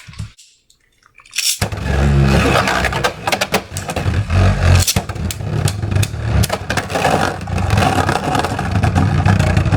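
Beyblade spinning tops launched into a plastic stadium, starting suddenly after a brief hush. They spin with a steady rough whirr and clash, giving many sharp clicks of collision.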